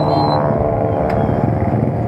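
Motorcycle engine running steadily, with a short click about a second in.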